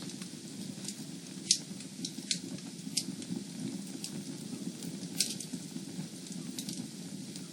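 Wood fire burning in a fireplace: a steady low rush of flame with scattered sharp crackles and pops, the loudest about a second and a half in and another about five seconds in.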